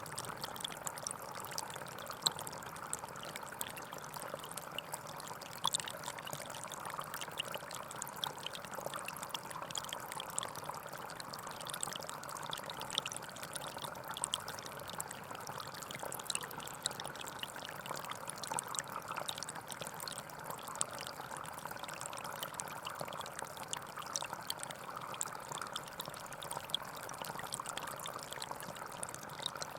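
Small stream flowing and trickling over stones, a steady splashing babble with fine droplet ticks throughout.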